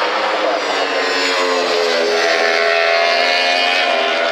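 JSB1000 racing superbike engines at high revs, their pitch climbing as they accelerate out of the corner.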